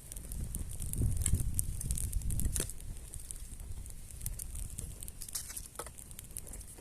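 Wood campfire crackling, with many small sharp pops scattered irregularly over a low rumble.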